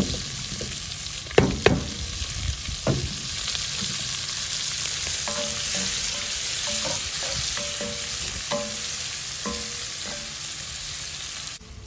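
Onions and bacon sizzling in hot fat in a cast iron pot, with a few sharp knocks in the first three seconds. The sizzle cuts off suddenly near the end.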